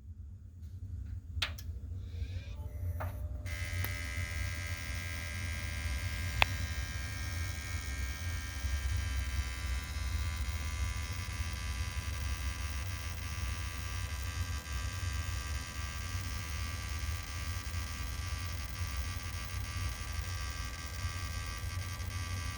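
Desktop PC making a steady low buzz, an unwanted noise from inside the computer. About three and a half seconds in, a set of faint higher whining tones joins it, and a single sharp click comes a few seconds later.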